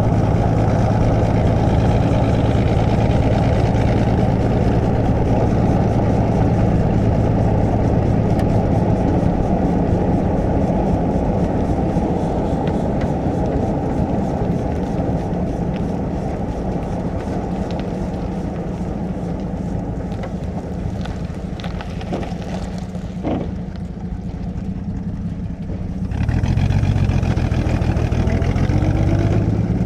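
Cabin sound of a 1937 Plymouth's flathead six-cylinder engine driving at a steady speed, then easing off and going quieter for a few seconds with a single click. About 26 seconds in it comes back louder, its pitch rising as the car accelerates again.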